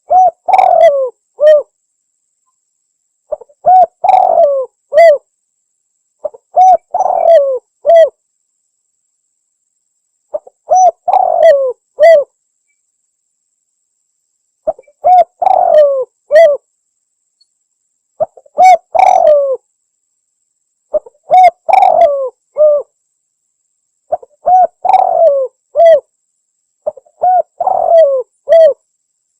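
Spotted dove (tekukur) cooing its phrase of several short coos, repeated about every three seconds, nine times over, with dead silence between phrases. It is a bird-lure call recording.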